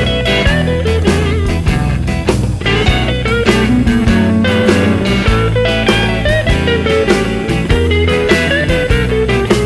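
Blues band playing an instrumental break with a steady drum beat and bass, with electric guitar notes bending over it.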